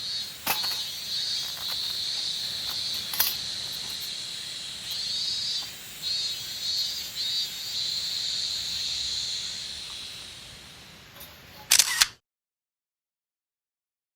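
Insects calling in a high, steady buzz that swells and pulses. Near the end comes a camera shutter sound, twice in quick succession, then the sound cuts off to silence.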